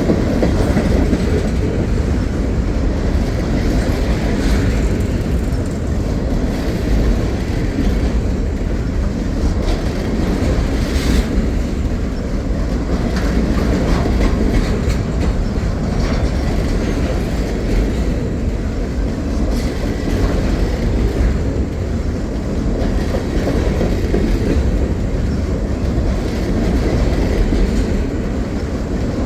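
Freight cars of a CSX manifest train, a long string of empty trash cars, rolling steadily past: a continuous rumble and rattle of steel wheels on rail with light clicking over the rail joints.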